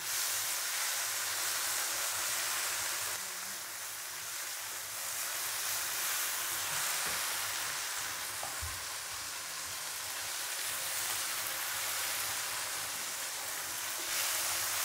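Green chillies, shallots and green tomatoes sizzling in oil in a wok over lowered heat while being stirred with a silicone spatula: a steady frying hiss as the tomatoes' juice cooks off.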